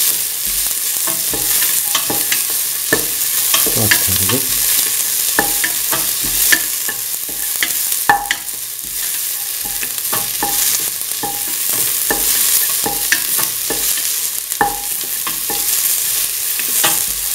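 Diced onion, shallots, garlic and fennel seeds sizzling in hot oil in a steel pan, stirred with a spatula. The spatula knocks and scrapes against the pan about once or twice a second, some knocks leaving a short metallic ring.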